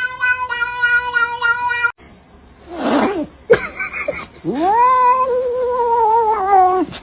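A cat hisses, then lets out a long, drawn-out yowl that rises in pitch, holds wavering for over two seconds and cuts off. Before it, a steady stepped tone, like background music, plays for about two seconds and then stops.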